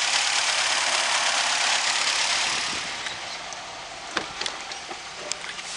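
Nissan X-Trail's 2.5 litre QR25 four-cylinder engine idling, an even hiss that fades after about three seconds. A few short clicks follow near the end.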